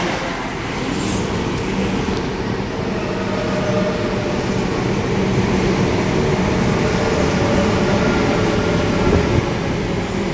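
Sydney Trains double-deck electric train running along the platform: a steady rumble of wheels on rail with a droning motor tone underneath.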